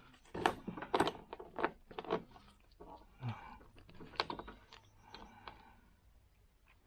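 Irregular light clicks and knocks of snowblower parts being handled and pushed into place by hand, with faint rustling between them.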